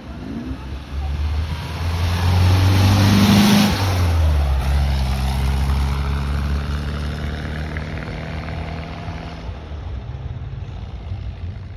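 Volkswagen Beetle Cabriolet's air-cooled flat-four engine running as the car drives. It grows louder to a peak about three to four seconds in, then its note drops lower and slowly fades.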